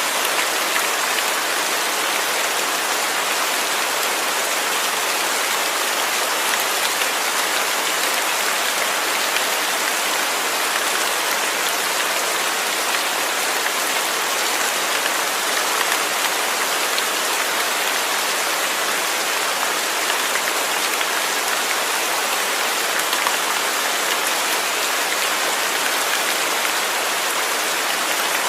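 Steady rain falling, an even hiss of drops on a surface with no pauses or changes.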